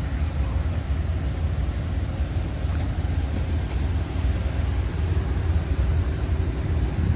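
Amtrak Southwest Chief passenger train rolling past, a steady deep rumble with no horn or bell.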